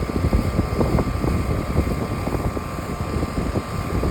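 Outdoor air-conditioner condenser unit running loud, its fan blowing hot air. There is a steady whir with a thin constant tone, over a gusty low rumble.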